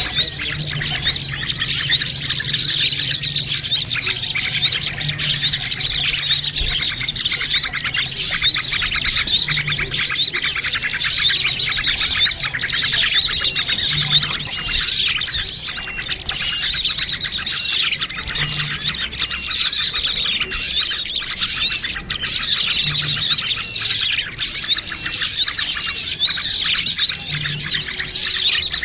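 A dense, unbroken chorus of many small birds chirping and chattering at once, played as a bird-lure call to draw small birds in.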